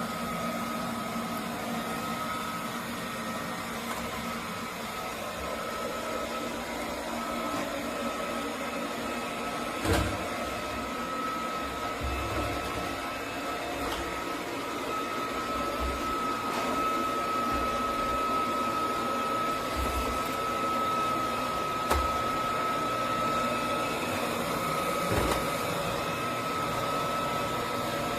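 eufy Omni C20 robot vacuum running: a steady whir with a constant high whine, and a few short knocks along the way.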